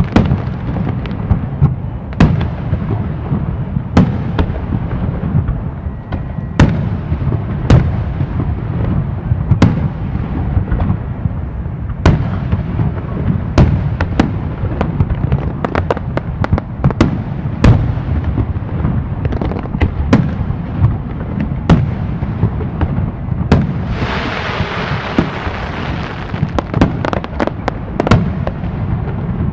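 Fireworks display: a steady run of sharp bangs from aerial shells bursting over a continuous low rumble, with a hissing crackle from about 24 to 26 seconds in.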